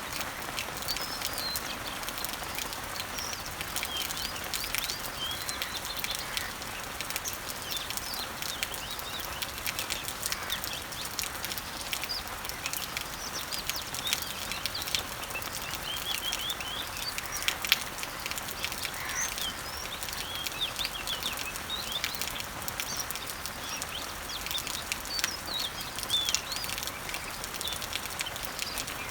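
Summer rain falling on garden leaves and trees: a steady hiss of many small drop ticks, with one louder drop a little past halfway. Small birds chirp and sing throughout, in short high calls.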